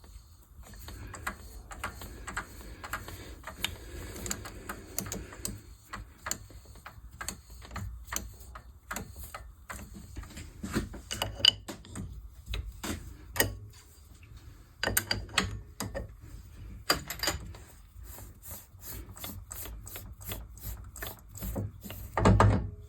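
Workshop machining sounds: a long run of irregular mechanical clicks and knocks over a faint low hum, with a quicker even ticking near the end and a heavy knock just before it stops.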